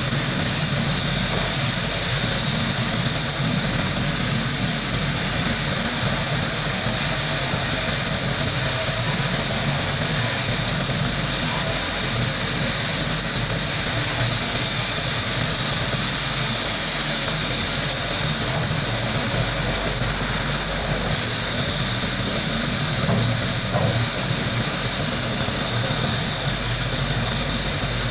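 Sandblaster blasting frame parts of a Tomos moped: a steady, loud hiss of compressed air and grit, with a low rumble underneath.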